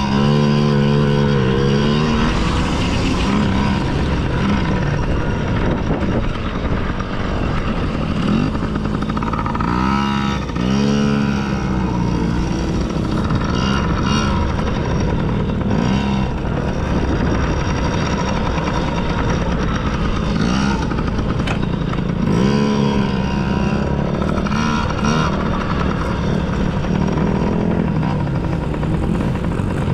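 Kid's dirt bike engine running hard on a motocross track, the pitch rising and falling over and over with the throttle and gear changes.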